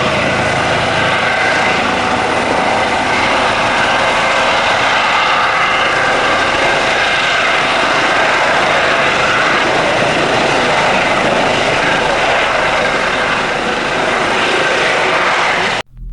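Twin-turbine helicopter running loud and steady at close range, with a steady rotor and engine noise and faint high whining tones. It cuts off abruptly near the end.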